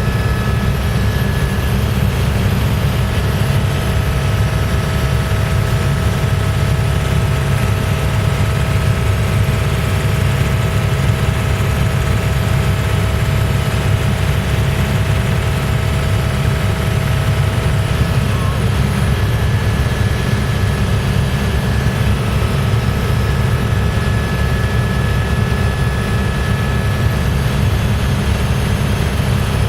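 Helicopter in flight heard from inside the cabin: a loud, steady drone of engine and rotor, with faint steady whining tones above it that come and go.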